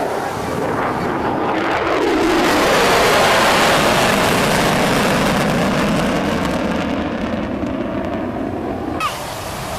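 BD-5J Microjet's small turbojet making a fast pass: a jet rush that swells to its loudest about three seconds in, its pitch dropping as it goes by, then slowly fading.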